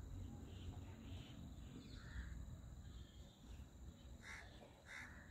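Faint outdoor ambience with a low rumble and a few short, distant bird calls; two of the calls come close together near the end.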